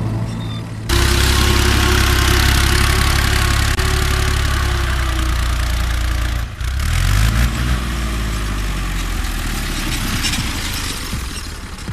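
Tractor engine running loud and steady under load. About six and a half seconds in it dips briefly, then revs up and settles.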